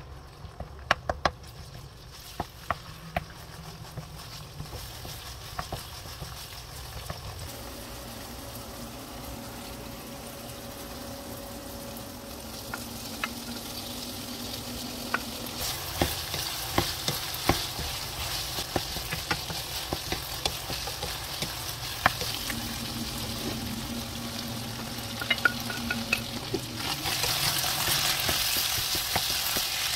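Minced beef sizzling in an oiled nonstick wok while a wooden spoon stirs it, with frequent clicks and taps of the spoon against the pan. The sizzle builds once diced potato, carrot and onion go in, and is loudest near the end.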